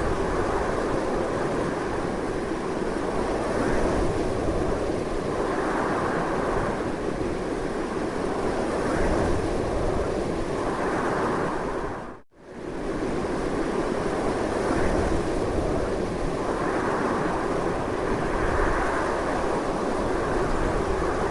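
Strong wind blowing steadily, swelling and easing slightly in gusts. About halfway through it fades out almost completely for a moment and comes straight back.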